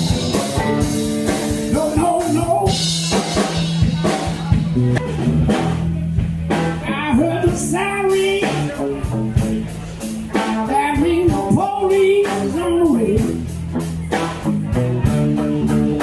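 Blues band playing: guitar over bass and a drum kit keeping a steady beat, with bending lead notes in the middle.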